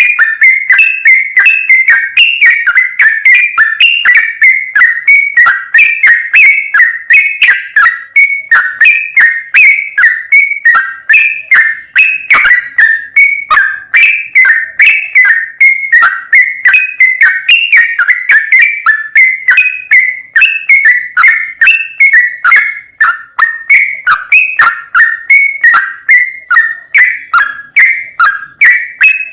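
Yellow-vented bulbul (trucukan) song: an unbroken, rapid run of short whistled chirps, several a second, without a pause. It is a long-running song recording played as a lure to get caged trucukan singing.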